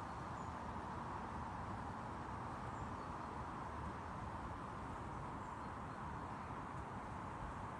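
Wind blowing through an evergreen tree, a steady hiss, with a few faint high chirps.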